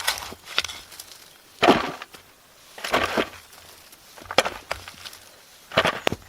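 Four separate dull knocks with a crunching edge, about a second and a half apart, from wood being struck or handled.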